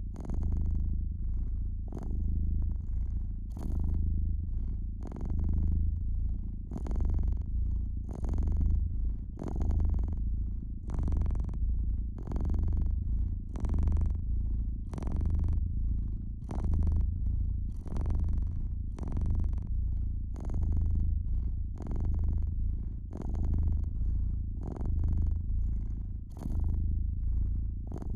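A domestic cat purring steadily, a deep rumble that swells and fades with each breath about every two seconds. Fireplace crackling runs over it: frequent short, sharp pops at irregular intervals.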